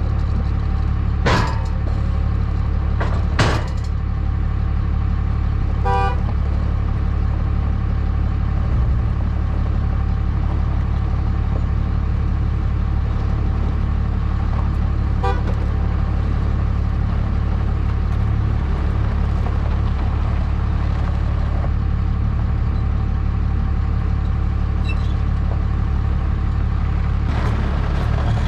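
A vehicle engine running steadily at idle, with a few sharp knocks about one, three and a half, six and fifteen seconds in.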